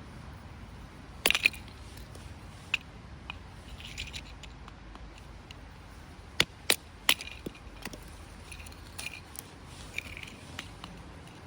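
Irregular sharp knocks and clicks with a few short scrapes, the sound of firewood being handled and stacked. There is a tight cluster of three knocks about halfway through.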